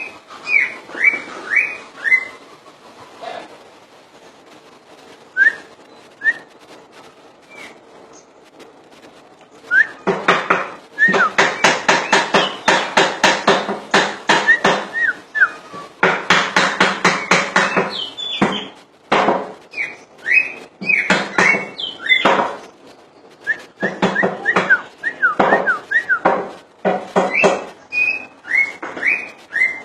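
Green leafbird (cucak ijo) singing in full voice: clear, down-slurred whistled notes, broken in the middle by a fast, dense run of notes lasting about seven seconds, then more whistles.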